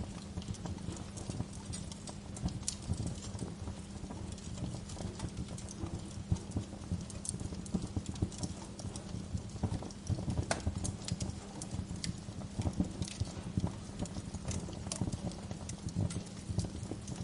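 Bonfire burning: wood crackling with irregular sharp pops and snaps over a steady low rumble of the flames.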